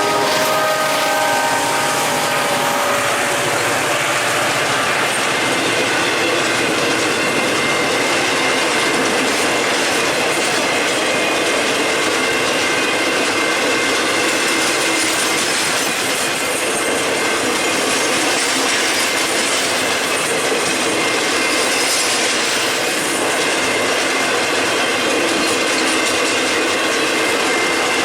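Freight train passing close by: the last of a multi-note locomotive horn dies away in the first few seconds, then a steady rumble and clatter of freight cars rolling over the rails, with a faint high steady wheel squeal.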